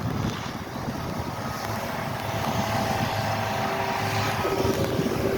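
A vehicle engine running steadily, its hum becoming clearer about a second and a half in, over a low rumble of wind on the microphone.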